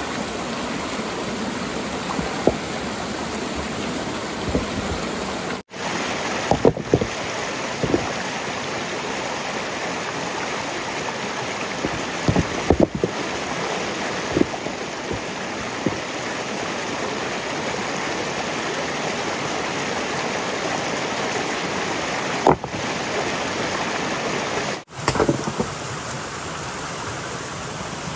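Steady rush of running water with scattered knocks and clatters. The sound cuts out abruptly twice.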